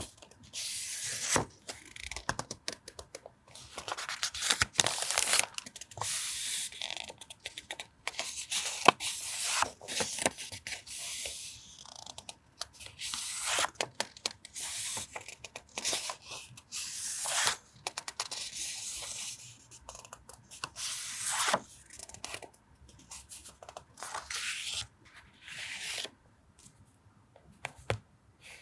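Sheets of paper being handled and shuffled: repeated short bursts of crisp rustling, with small taps and clicks between them.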